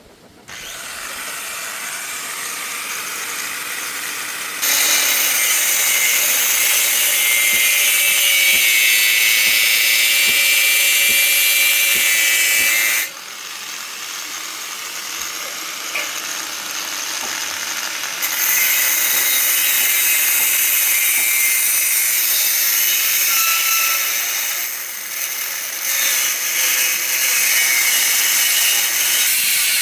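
Electric power tool working on steel, running steadily with a hissing, high-pitched noise. It works in long passes: louder from about 5 to 13 seconds in, quieter for a few seconds, then louder again from about 18 seconds.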